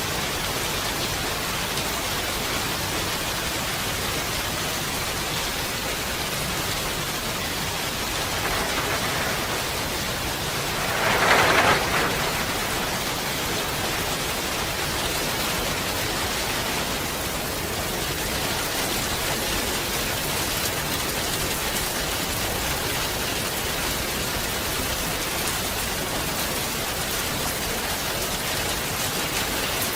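Steady rain falling as an even hiss, with one louder swell lasting about a second a little over a third of the way in.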